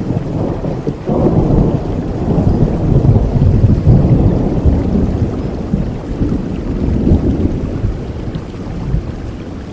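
Thunder rumbling over steady rain: a long, deep roll that swells sharply about a second in, stays loud for several seconds and slowly dies away near the end.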